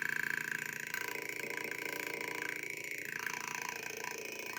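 Electronic motorcycle engine imitation: two slightly detuned 555 timer pulse circuits driving a resonance speaker pressed against a box and a pipe, giving a steady burbling, popping engine-like sound with a high whine over it.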